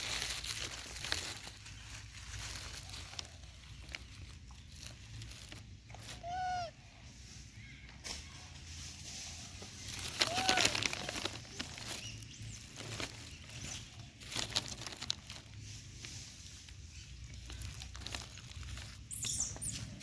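Monkeys feeding, with scattered clicks and rustles of handling, and two short arched squeaky calls, one about six seconds in and one about ten seconds in.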